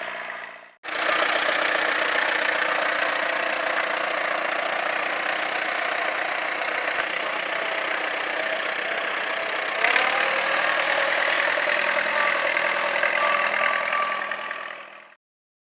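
Tractor engine running steadily, cut off briefly about a second in, with a sudden small change near ten seconds in, then fading out near the end.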